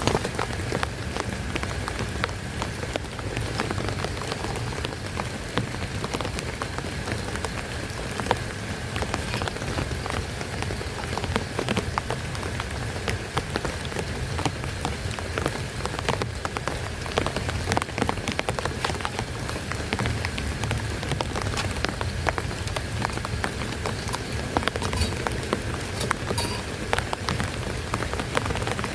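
Heavy rain falling steadily, with many separate drops tapping sharply on a surface close by.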